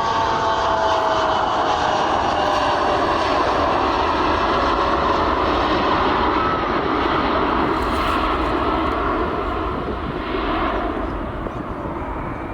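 Jet airliner's engines passing close by, loud. Whining tones slide down in pitch at the start, then a broad rush that fades about ten seconds in.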